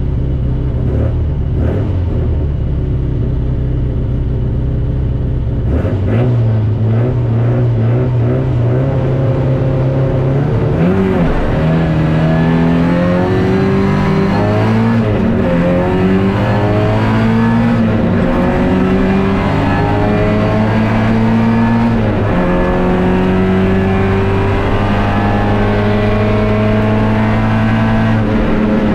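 MG B roadster race car's four-cylinder B-series engine heard on board. It idles, then is held at higher revs from about six seconds in, then accelerates hard through the gears from about eleven seconds, its pitch climbing and dropping back at each of several upshifts.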